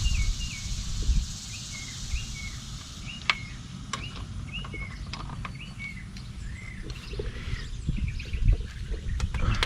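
A small bird chirping over and over, short hooked calls at about two a second, with scattered sharp clicks and knocks mixed in.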